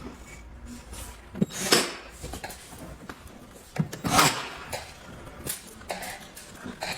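Screwdriver and hands working on a plastic printer casing while its outer screws are driven in: scattered clicks and scrapes, loudest about a second and a half in and again around four seconds in.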